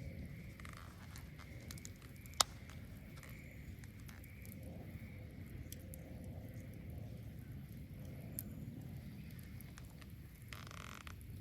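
Wood bonfire burning: a steady low rush of flames with scattered small crackles and one sharp pop about two seconds in, and a short hiss near the end.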